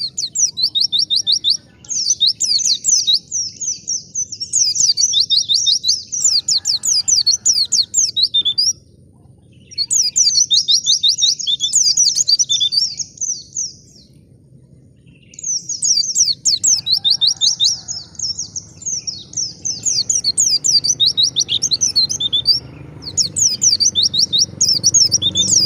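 White-eye (pleci) singing a fast, high twittering song in long runs of several seconds, with two short breaks. The song is the wild-style ('ngalas') type played as a lure to set caged white-eyes singing. A low background rumble rises under it near the end.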